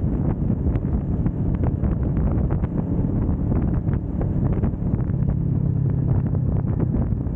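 A 2025 Kawasaki Vulcan S 650's parallel-twin engine running steadily under way, with wind buffeting the microphone in short crackles.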